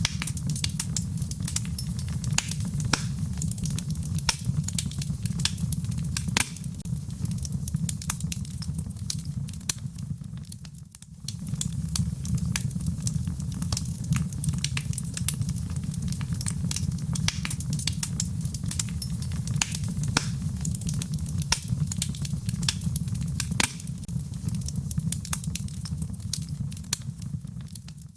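Wood fire crackling: many sharp pops and snaps over a steady low rumble of flame. The sound dips briefly about eleven seconds in and again at the end.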